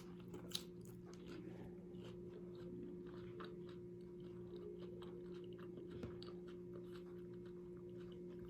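Quiet chewing of nachos close to the microphone, with small scattered crunching clicks of tortilla chips, over a steady low hum.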